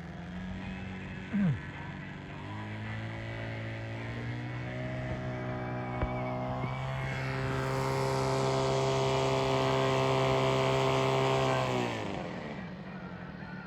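Radio-controlled A-10 Thunderbolt model jet's engines whining. The pitch steps up twice and the sound grows louder, then the pitch drops and the sound fades away near the end. A brief falling chirp comes about a second and a half in.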